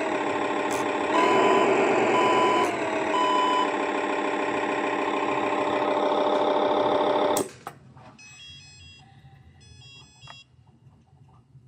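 Sound board playing a synthesized Caterpillar 730 articulated dump truck engine through a small speaker: idling, revving up briefly about a second in, with three reversing beeps about a second apart, then the engine shuts off suddenly about seven seconds in. Faint electronic chirps follow.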